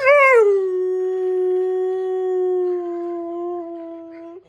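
German shepherd howling: one long howl that rises briefly at the start, then holds a steady note that sinks slightly and stops near the end.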